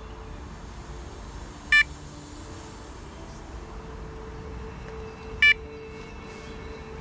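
Electronic carp bite alarm giving two short, high-pitched beeps about three and a half seconds apart.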